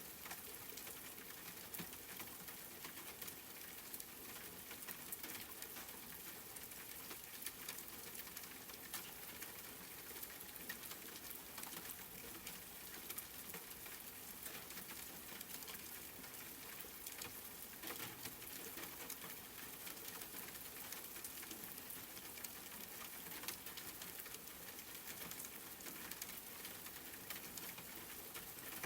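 Steady rain pattering, with many small drop ticks scattered through it.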